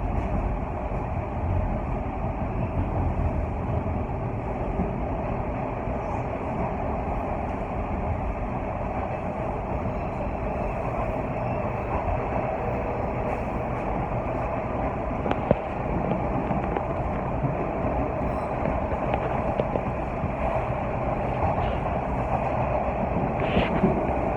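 Steady running noise of a Toronto subway train heard inside the car, with one sharp click about fifteen seconds in.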